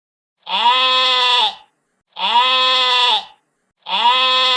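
Sheep bleating: three long, identical bleats about half a second apart, the same call repeated.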